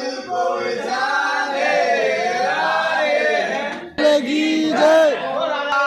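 Voices singing together in a choir-like, chant-style vocal with no instruments. About four seconds in it cuts abruptly to a louder passage of swooping, rising-and-falling vocal notes.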